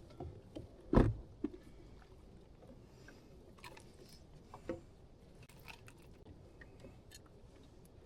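Handling knocks and clicks: one sharp knock about a second in, a smaller knock just after it, another near the middle, and light scattered ticks and taps between them.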